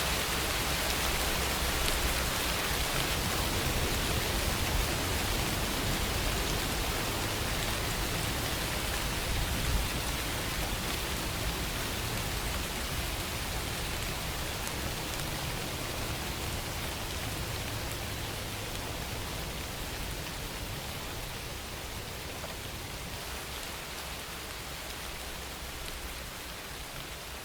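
Steady rainfall, an even hiss of many drops, slowly getting quieter over the stretch.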